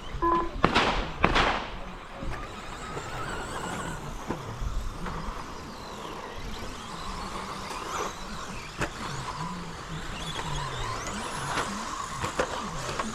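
Electric 1/10 scale RC stadium trucks racing on an off-road track: motors whining, rising and falling with throttle, with tyre and chassis noise. Two loud rushing bursts come about a second in, and a few sharp clicks follow later.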